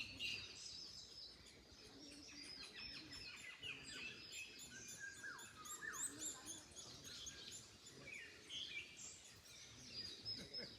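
Several songbirds chirping and singing at once, many short high notes and quick downward-sweeping calls overlapping throughout, over a faint low rumble of wind.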